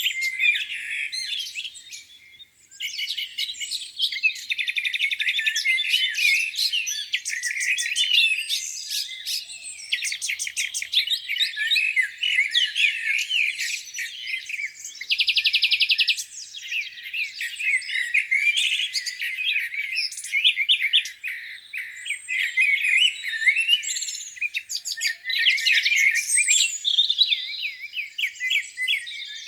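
Several songbirds singing at once in a spring morning chorus: overlapping chirps, whistles and fast trills with hardly a pause. There is a short lull a couple of seconds in and a brief buzzy trill about halfway through.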